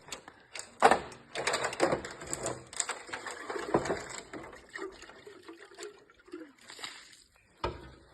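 Water splashing and sloshing in irregular bursts, busiest in the first few seconds and thinning out toward the end.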